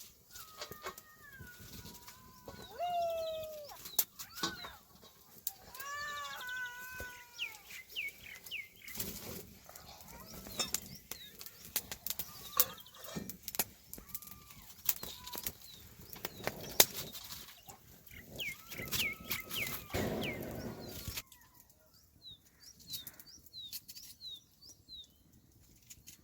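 Domestic chickens clucking and calling, with chicks peeping in quick series of short high notes, amid scattered sharp clicks and knocks.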